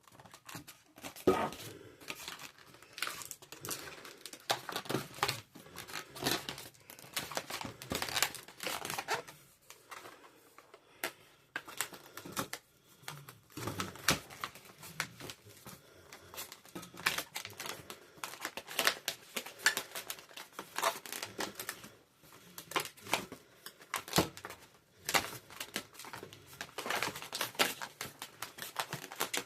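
Latex twisting balloons being handled and twisted, the rubber rubbing in many irregular short bursts, a few of them sharper and louder than the rest.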